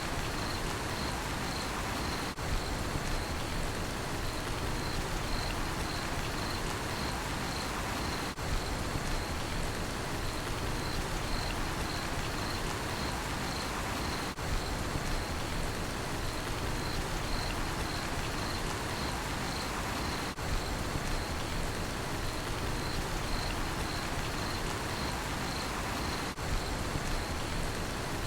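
Steady rain falling, with a cricket chirping on one high note in even pulses, about one and a half a second. The sound dips briefly about every six seconds.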